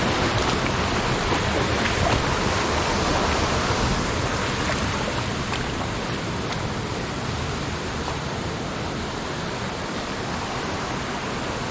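Mountain stream rushing over rocks, a steady loud rush of water that eases a little after about four seconds.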